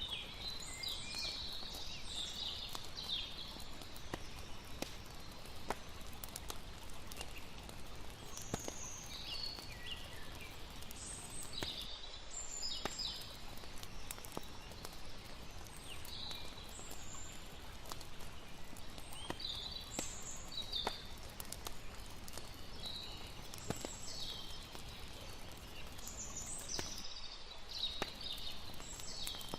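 Layered night ambience of a steady rush of river water, scattered crackles and pops from a campfire, and short high chirping calls every second or two.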